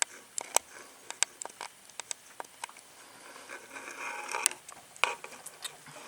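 A starling's bill pecking at a suet feeder: sharp, irregular clicks and taps, about a dozen, with brief scratchy scraping sounds about four and five seconds in.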